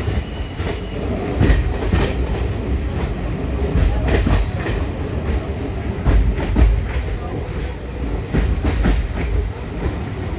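Passenger train carriage running along the track, heard from on board: a steady low rumble with repeated clacks as the wheels cross rail joints.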